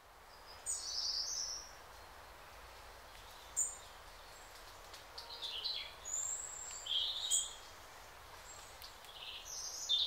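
Wild birds calling over a faint outdoor hiss: short high chirps and calls, some sliding down in pitch, coming every second or two.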